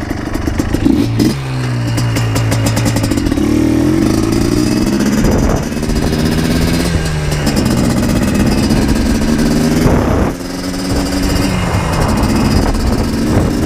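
Yamaha Blaster 200's two-stroke single-cylinder engine pulling away and accelerating through the gears, its pitch climbing and then dropping at each shift, several times over.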